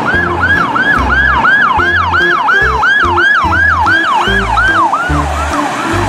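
Ambulance siren in a fast yelp, about three to four sweeps a second, fading out near the end, over background music with a steady beat.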